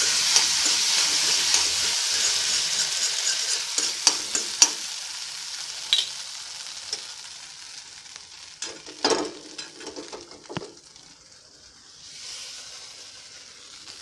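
Hot ghee tempering of mustard seeds, cumin and cashews sizzling as food is stirred into the pan. The sizzle is loud at first and dies away over several seconds, with a few spoon knocks and scrapes against the pan.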